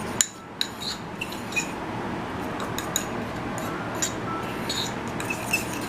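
Fork clinking and scraping against a ramekin while stirring a stiff dough: irregular sharp clicks every half second or so.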